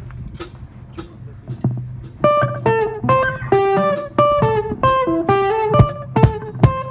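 A low steady hum with a few clicks, then about two seconds in a guitar starts picking a repeating riff of single notes, several a second, as a song begins.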